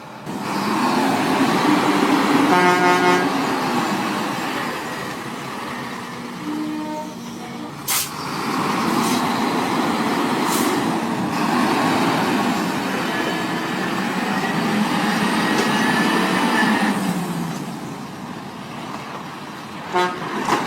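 Heavy diesel truck and machinery engines running hard and rising and falling in level, with a horn toot about three seconds in and a sharp crack about eight seconds in.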